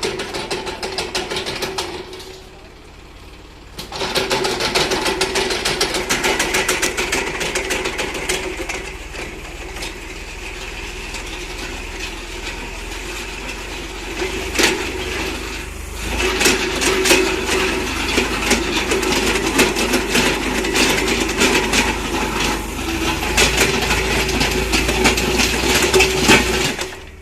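Tractor engine running under load with a rapid clattering beat. It quietens about two seconds in, comes back up about two seconds later, and grows louder again about halfway through.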